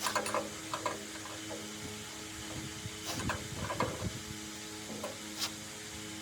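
Scattered light clicks and knocks of metal machine parts being handled during a workshop restoration, over a steady low hum.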